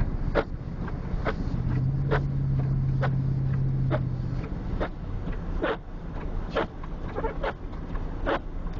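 Vehicle cabin on the move: steady low engine and road rumble, with a short knock about once a second and a low steady hum for a few seconds near the start.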